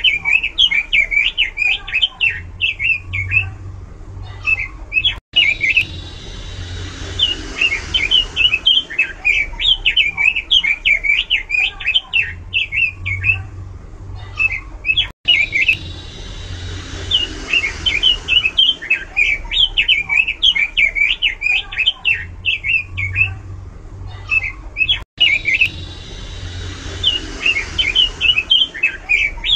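Pekin robin (red-billed leiothrix) singing loudly and continuously, runs of quick, varied chirping notes. The song breaks off for an instant about every ten seconds, with the same phrases coming round again each time.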